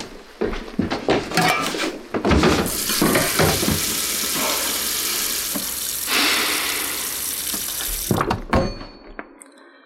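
Knocks and clatter in a kitchen, then a faucet running steadily into a stainless-steel sink for about five seconds before being shut off, followed by a few more knocks.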